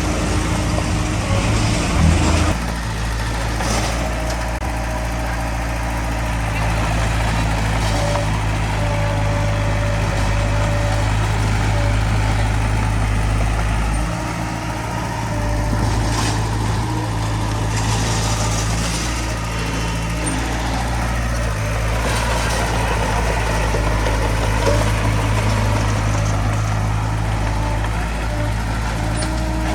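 Heavy diesel equipment engine running steadily with a low hum, its load rising and easing slightly a few times.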